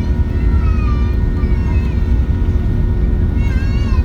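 Airbus A380's Rolls-Royce Trent 900 engines heard from inside the cabin during takeoff: a loud, steady deep rumble with a few steady whining tones above it.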